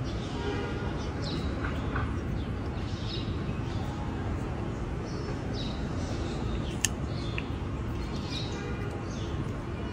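Small birds chirping, short high falling chirps about once a second, over a steady low background rumble. A single sharp click comes about two-thirds of the way through.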